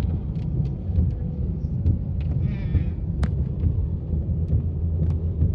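Steady low rumble of a car driving in a rainstorm, heard from inside the cabin, with scattered light ticks. A faint voice comes in briefly about halfway through.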